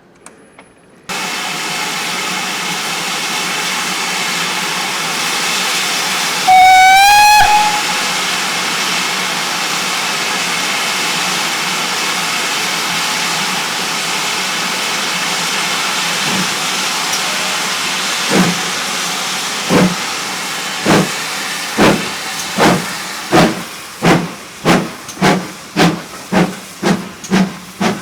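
Steam locomotive standing with a steady hiss of steam, sounding a short whistle of about a second, then starting away: its exhaust beats begin slow and quicken steadily.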